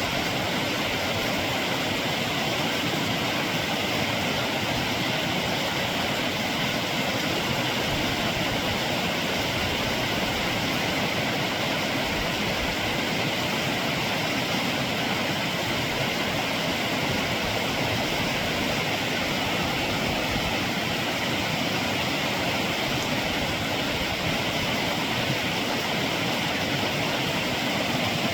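Steady rushing of running water, an even, unbroken roar with no change in level.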